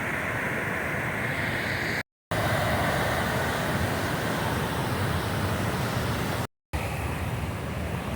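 Creek water rushing steadily over rocks, a constant hiss. The sound cuts out completely twice, for a moment each time, about two seconds in and again near the end.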